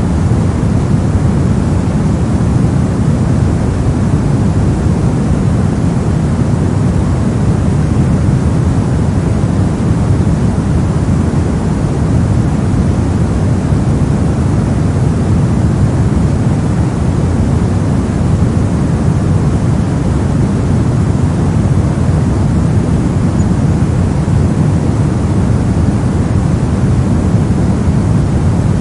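Continuous brown noise: a steady, deep rumbling hiss with most of its energy in the low end and little treble, unchanging throughout.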